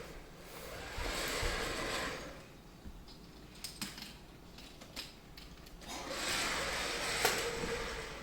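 A toy train's small electric motor whirring as it runs along the track, stopping for a few seconds of scattered plastic clicks and knocks, then whirring again.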